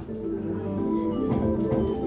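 Slot machine bonus-feature music: a steady run of bright, bell- and marimba-like notes playing a tune, the game's soundtrack after three bonus symbols start the feature.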